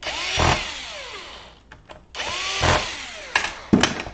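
Small electric screwdriver run in two bursts of about two seconds each, its pitch falling as each run winds down, driving screws during laptop reassembly. A few sharp clicks near the end.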